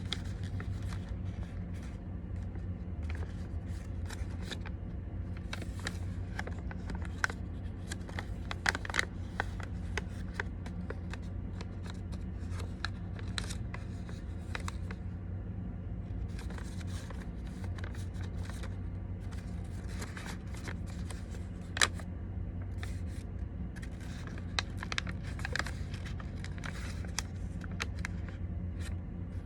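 Sheet of origami paper being handled and folded: scattered rustles and sharp crease clicks, a few louder ones, over a steady low hum.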